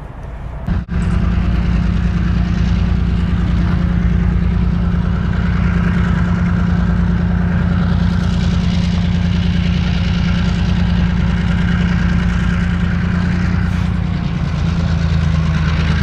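Diesel locomotive engine running loud and steady, swelling up over the first second and holding an even low drone.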